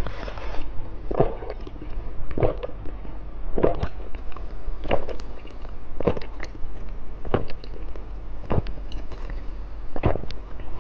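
A person chewing candy close to the microphone, with a short chew sound about once a second.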